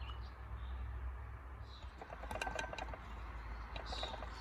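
Small metal parts of a damaged propeller hub assembly being handled. They give a quick run of light clicks and clinks about halfway through, and a few more near the end, over a low steady hum.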